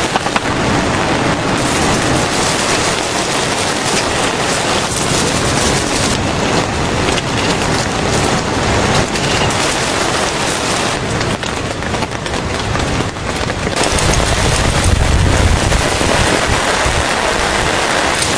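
Heavy rain falling, a loud, dense patter of drops striking a surface. The rain's sound shifts abruptly a few times and turns louder and deeper about fourteen seconds in.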